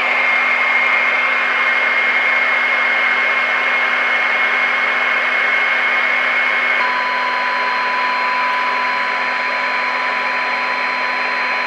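Speaker of a Marconi model 2004 seven-transistor radio giving loud, steady static hiss while a 600 kHz test signal is tuned in during alignment. A steady high whistle sounds through the hiss, and about seven seconds in it gives way to a steady, lower test tone.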